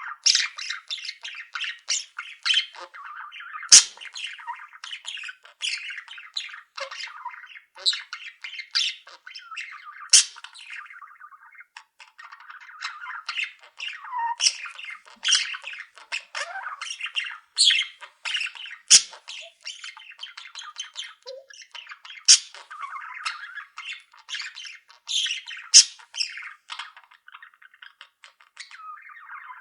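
A flock of pet budgerigars chattering continuously, with many short, sharp, high squawks and chirps on top.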